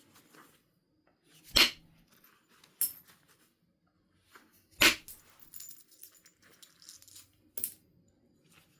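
Flint being knapped by percussion: four sharp strikes on the stone, a second or more apart, with fainter scratching and clicking between them.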